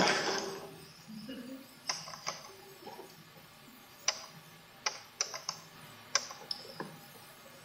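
A noisy rush fades away in the first second, followed by about a dozen light, sharp clicks and knocks at irregular intervals.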